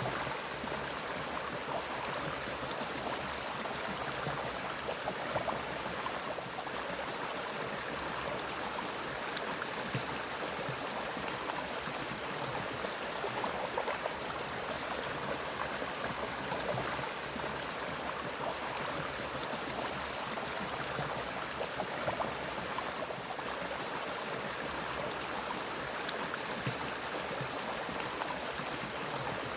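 Mountain stream flowing in an even, continuous rush of water, with a steady high-pitched tone running over it.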